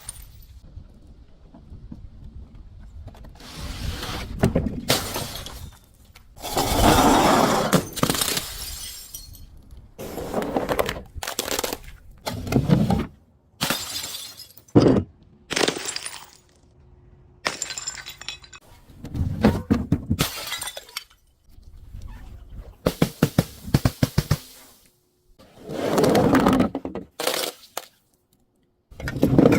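Glass bottles and other brittle objects being crushed and shattered, one after another: a series of separate crunching, breaking bursts, each a second or two long, with short quieter gaps between them.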